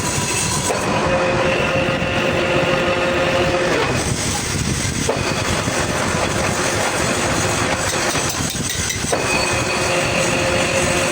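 Workshop machinery running continuously with a steady mechanical noise. A pitched tone comes in about a second in, drops out around four seconds, returns about a second later, drops again near eight seconds and comes back near nine.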